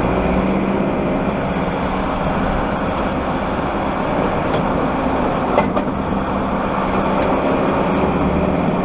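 Heavy goods vehicle's diesel engine running steadily, heard from inside the truck's cab as an even, low drone over road noise.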